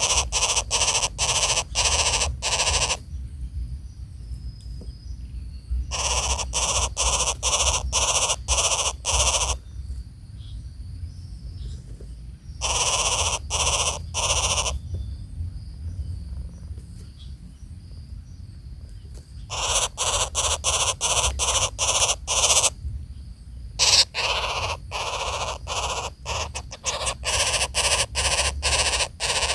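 Harsh, raspy bird calls given in runs of quick pulses, about two or three a second. Each run lasts two to four seconds, and five runs follow one another with short pauses.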